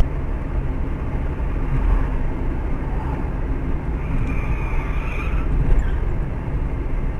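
Steady rumble of a moving road vehicle, heavy in the low end, with a faint higher whine for about a second past the middle.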